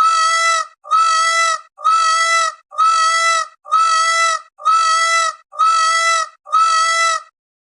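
An animal call repeated eight times at an even pace of about one a second, each call a short, steady, high-pitched cry of the same shape, like a looped recording.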